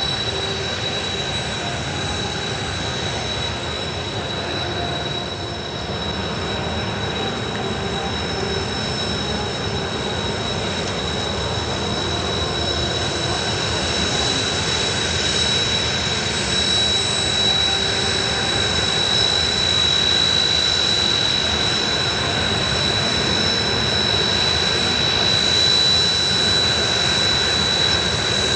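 Kawasaki T-4 jet trainers taxiing in, their turbofan engines giving a steady high whine over a rushing engine noise that grows gradually louder toward the end.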